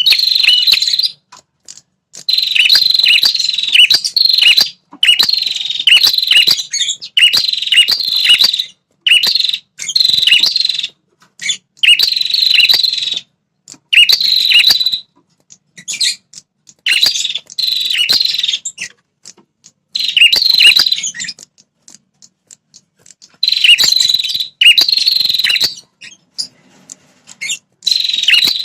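Red-headed prenjak (a tailorbird) singing its loud territorial song: rapid, high chattering phrases a second or two long, repeated after short pauses, with a longer break a little past the middle.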